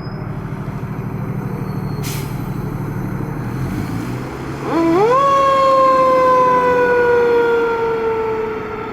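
Fire engine's diesel running, with a short hiss about two seconds in. About halfway through, a Federal Q mechanical siren winds up quickly, then slowly coasts down in pitch. The siren is the loudest sound.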